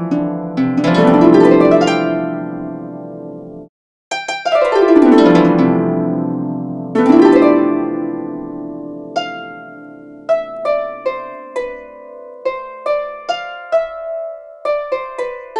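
Harp music: sweeping glissandos rising and falling, then a slow melody of single plucked notes. The sound cuts out abruptly for a moment just under four seconds in.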